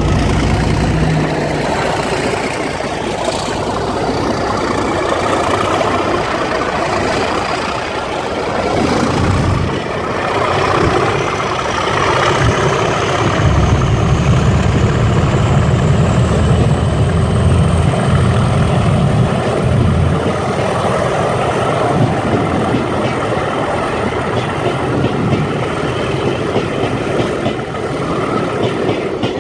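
Pair of Class 37 diesel-electric locomotives working under power, their English Electric engines running loudly, with a deep rumble that swells about halfway through. A high whistle rises slowly in pitch over several seconds.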